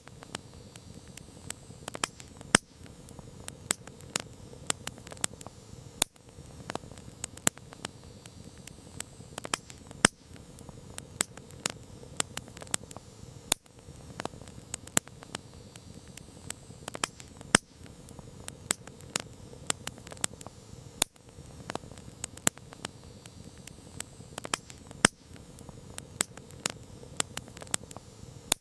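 Wood campfire crackling: irregular sharp pops and snaps, a few louder than the rest, over a steady hiss of the burning fire.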